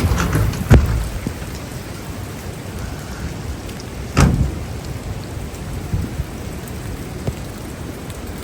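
Rain falling steadily during a thunderstorm, with two short sharp cracks, the first about a second in and a louder one about four seconds in.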